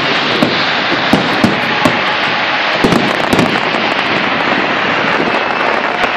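Aerial fireworks shells bursting overhead: an irregular string of sharp bangs, most of them in the first three and a half seconds, over a continuous dense hiss.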